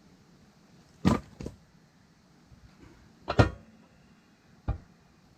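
Four sharp wooden knocks from a firewood log being struck and worked apart: two loud ones about a second in and past the middle, two weaker ones after each. The log's interlocked grain is holding the split pieces together.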